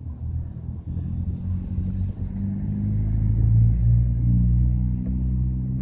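Low engine rumble, like a motor vehicle going by, swelling to its loudest about halfway through and easing off toward the end.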